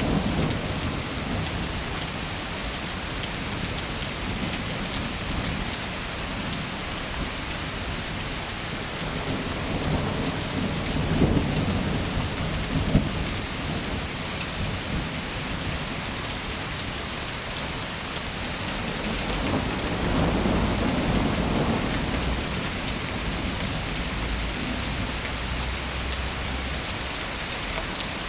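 Steady rain hissing, with low thunder rumbles swelling twice, about ten seconds in and again about twenty seconds in.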